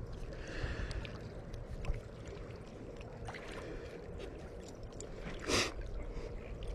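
Steady low rumble of moving water and wind, with a brief rustling noise about five and a half seconds in.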